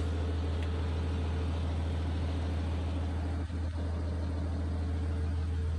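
Steady low hum of the Genesis GV80's 3-litre diesel engine idling, with a faint steady whine over it that fades near the end.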